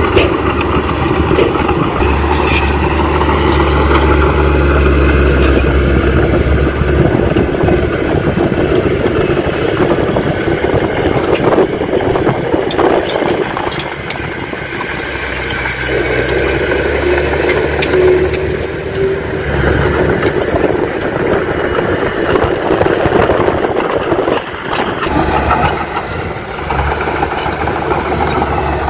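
Diesel engines of heavy earthmoving machinery running at a land fill, the low rumble swelling and easing with load, with scattered knocks and rattles.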